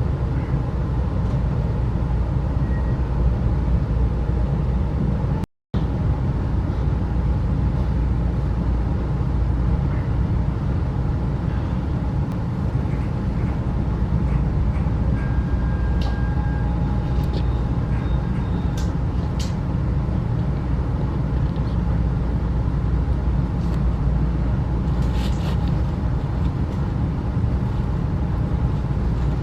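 Steady rumble of a 35-series passenger coach riding the rails, heard from inside the coach, with a few faint clicks. The sound cuts out completely for a moment about five seconds in.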